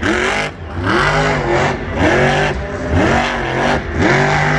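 Monster truck engine revving in repeated blips, the pitch rising and falling about once a second.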